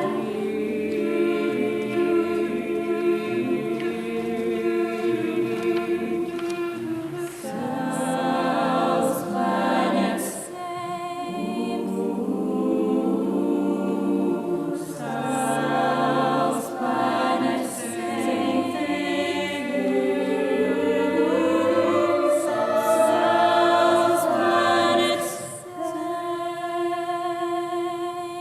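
A choir singing in harmony, several vocal parts holding and moving between sustained notes, with no clear instrumental accompaniment.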